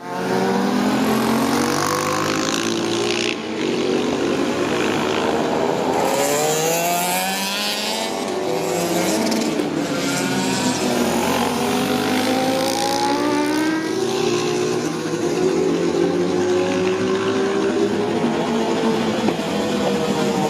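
Honda VFR400R (NC30) 400cc V4 engine in a VF400F race bike, running at high revs under hard acceleration. Its pitch climbs and drops repeatedly as it changes gear and slows for corners, with a short break at a gear change about three seconds in.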